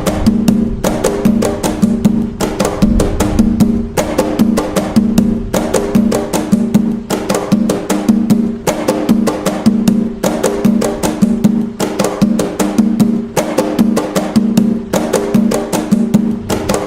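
Atabaque hand drums playing the toque nagô, the Afro-Brazilian rhythm used in Umbanda: a fast, steady pattern of ringing strokes that repeats evenly.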